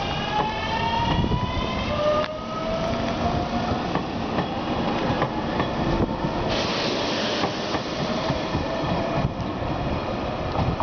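Electric train moving slowly alongside a station platform, with a rumble and a motor whine that rises in pitch and resets twice, plus a short hiss about seven seconds in.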